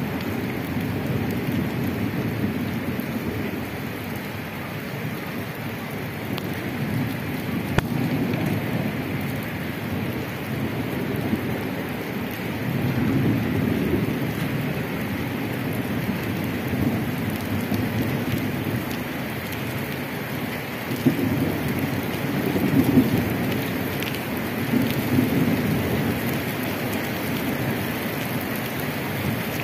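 Steady rain falling on a wet paved street and puddles, with a low rumble swelling up a few times, strongest about two thirds of the way through.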